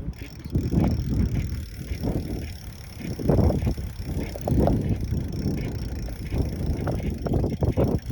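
Bicycle being ridden, with wind buffeting the microphone and irregular low rumbling and knocks.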